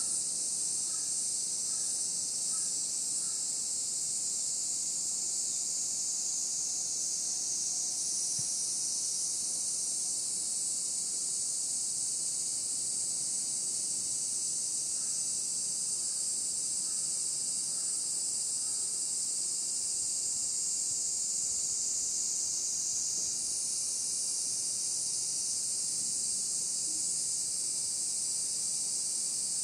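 Dense chorus of insects, a continuous high shrill that holds steady throughout, with a few faint short chirps lower down now and then.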